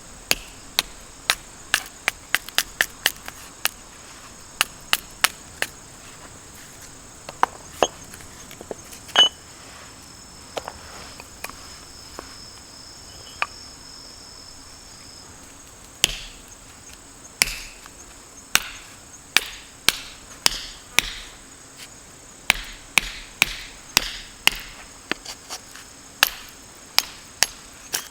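Irregular sharp knocks or cracks, one or two a second, coming thicker and ringing a little longer from about halfway through, over a steady high chirring of insects.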